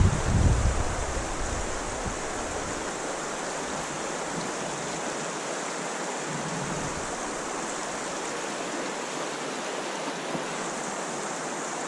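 Creek water running steadily over a riffle. Gusty wind buffets the microphone with a low rumble at the start, dying away within the first couple of seconds.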